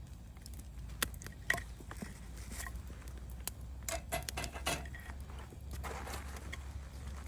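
Scattered small clicks and light clinks, irregular, with a few brighter clinks a little past the middle, over a low steady rumble.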